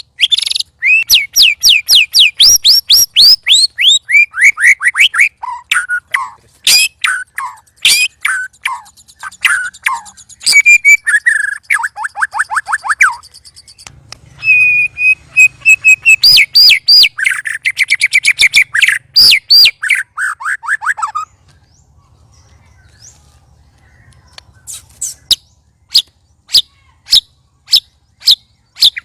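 Several white-rumped shamas singing loudly in fast, varied runs of rising and falling whistles and trills, the excited song of birds provoked against one another. After a short lull near the end, one gives a steady series of sharp, clipped calls, about two a second.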